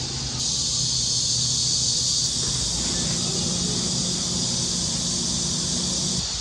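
Steady high-pitched insect drone that starts suddenly about half a second in and cuts off just before the end, with a low hum joining about halfway through.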